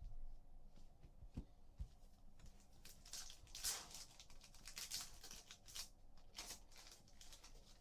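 Faint tearing and crinkling of a trading-card pack wrapper being opened by hand, a run of rustling bursts starting about two and a half seconds in, after a couple of soft knocks.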